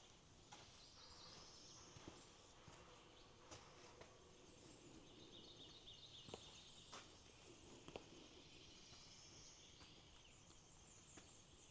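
Near silence: faint outdoor quiet with distant birdsong and a few light clicks.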